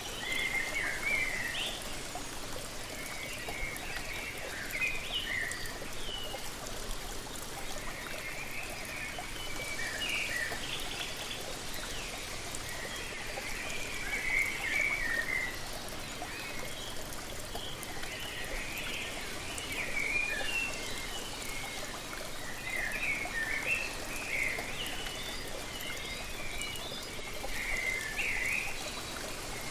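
Steady rushing of a waterfall, with birds singing in short chirping phrases every few seconds over it.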